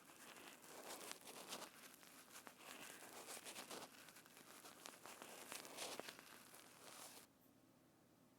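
Faint, close-miked crackling and crinkling handling noise from an ASMR trigger material worked by hand, full of small clicks, stopping abruptly about seven seconds in.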